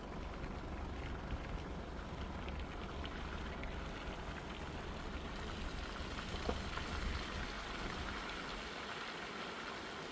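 Rain falling, with scattered small drop ticks, over the steady low rumble of a car on a wet road.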